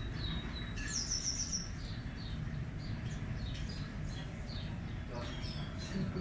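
Small birds chirping and calling, with a quick run of high falling notes about a second in, over a steady low background rumble.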